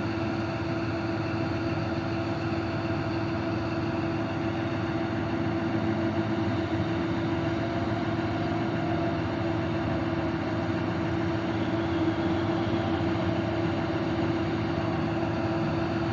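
Heavy mining dump truck's engine running steadily, with a constant droning hum and no change in speed.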